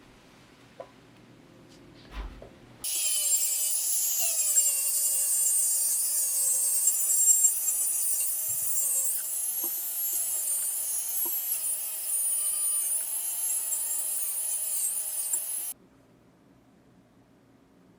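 Small handheld power tool running against the work with a high whine that wavers up and down in pitch as it loads, starting suddenly about three seconds in and cutting off abruptly a couple of seconds before the end.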